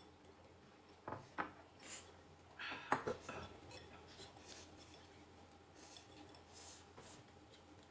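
Light clinks, knocks and scrapes of tableware being handled: a few sharp clicks early, then a louder cluster of knocks and scrapes about three seconds in, followed by faint scattered ticks.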